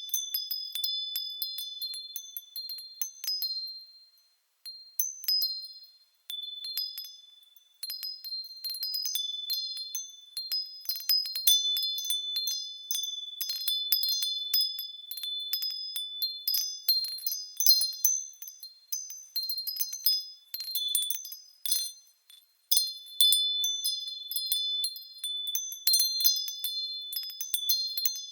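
Japanese furin wind bells tinkling in the breeze, struck at irregular moments with clear high ringing tones. The ringing briefly dies away about four seconds in, again near seven seconds, and once more just after twenty seconds, then picks up again.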